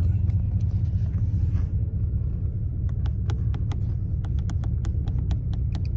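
Oldsmobile 98's engine running with a steady low hum, heard from inside the cabin. About halfway through comes a quick, uneven run of light clicks, typical of the dead sunroof switch being pressed again and again without the roof moving.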